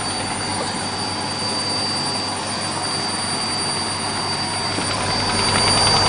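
Beko WMA642 washing machine drum spinning at high speed during its fast spin toward 1400 rpm: a steady rushing machine noise with a constant high whine and a low hum, growing a little louder near the end.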